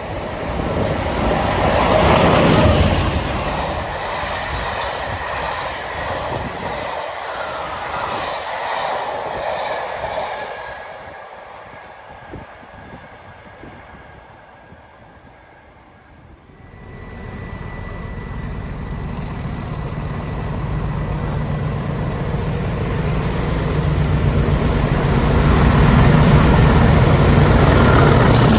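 A train passing at speed: the loud rush of the pass fades away over several seconds. Then, a little past halfway, a train approaches and grows steadily louder until it is passing close by.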